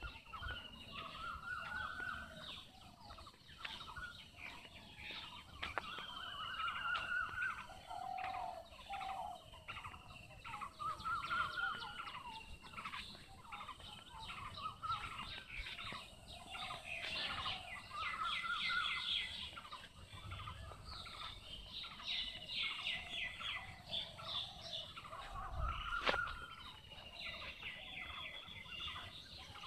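Several birds calling: one repeats a short rising-and-falling call every few seconds, while others give fast chattering trills higher up, busiest in the second half. A single sharp click comes near the end.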